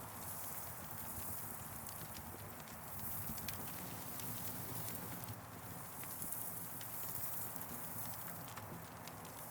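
Campfire crackling: irregular sharp pops and ticks over a steady hiss and low rumble of the burning wood.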